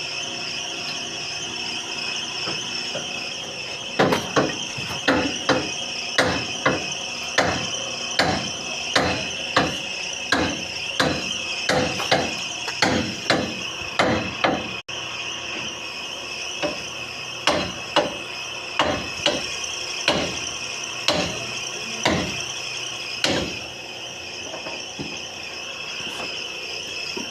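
Hammer-like metal knocks, about two a second, over a steady high-pitched whine. The knocks begin about four seconds in and stop a few seconds before the end.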